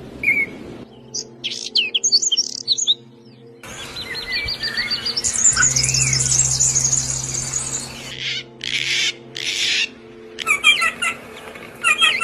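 Songbirds chirping and calling in a series of short clips that change abruptly every few seconds: quick high chirps, then dense chirping and trills, then two harsh rasping calls, then rapid runs of short chirps near the end. A low steady hum lies under some of the clips.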